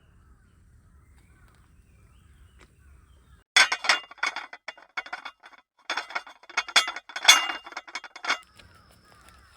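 Hard objects clinking and rattling against each other in quick clusters, with a glassy ring, starting about a third of the way in and stopping shortly before the end. Faint bird chirps are heard before it.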